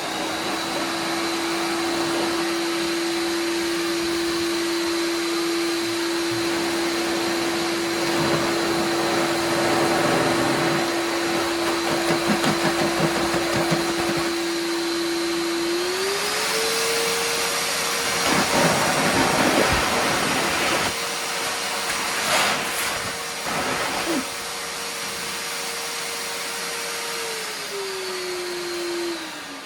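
TACKLIFE 6-gallon stainless steel wet/dry shop vacuum running in blower mode, with the hose on its top blowing outlet: a steady motor whine over rushing air. About halfway through the whine steps up higher, and near the end it slides down as the motor is switched off and spins down.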